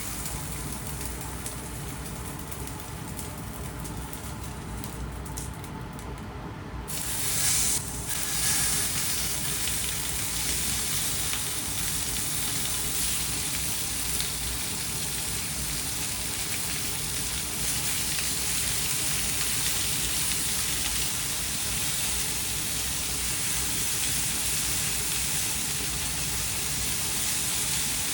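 Food frying in hot oil in a pan, sizzling steadily. The sizzle jumps louder and brighter about seven seconds in, then holds steady.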